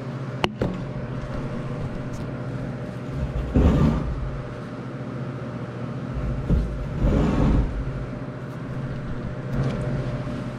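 Handling noise as a camera is set in place: a sharp click, then several dull bumps and rumbles over a steady low hum.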